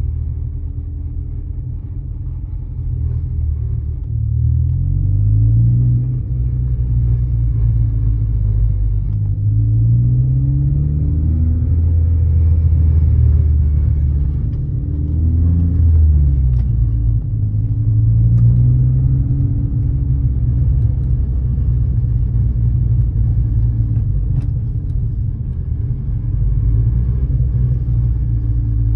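2014 Ford Focus ST with a heavy low rumble, its engine note climbing and falling several times as revs change. This is the unexplained noise the owner is trying to identify.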